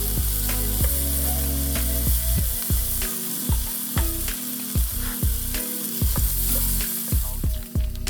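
A fire of wood pellets and oil-soaked tissue hissing and crackling as it catches in a steel-mesh fire stand, under background music with a steady beat and bass line.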